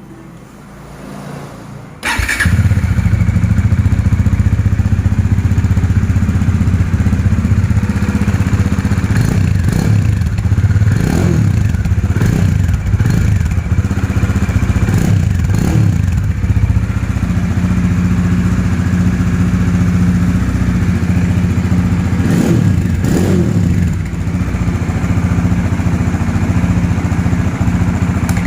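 Bajaj Dominar 400 single-cylinder engine running with no exhaust fitted, so it is very loud. It fires up about two seconds in, settles into a loud idle, and is revved in short blips several times in the middle and once more near the end.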